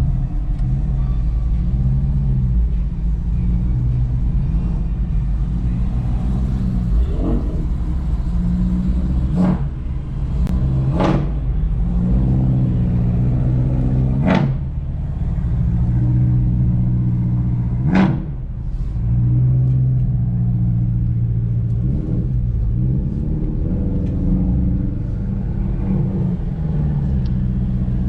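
Car engines running with the pitch rising and falling as they are revved, broken by about five short sharp sounds in the middle.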